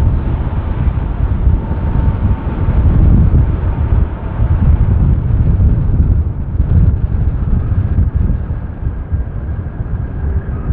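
Large jet airliner's engines rumbling loudly as it comes in to land. A faint whine fades out in the first few seconds and a higher whine comes in near the end.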